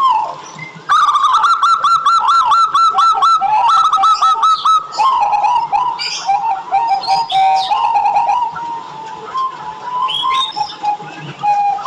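Zebra dove (perkutut) calling: about a second in comes a fast run of short, repeated staccato coos lasting about four seconds. Looser coos and calls follow, with a few higher chirps mixed in.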